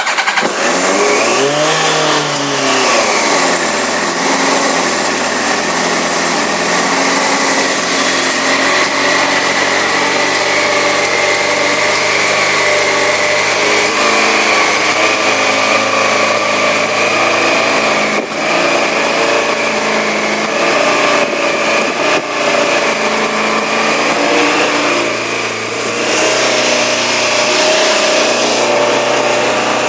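2000 Yamaha YZF-R1's inline-four engine firing up, revving up and dropping back in its first few seconds, then idling steadily. A little past halfway through the last ten seconds the engine note drops briefly, then settles back to a steady idle.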